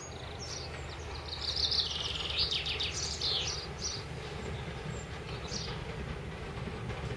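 Small birds chirping and singing in short high phrases, busiest a couple of seconds in, over a steady low rumble.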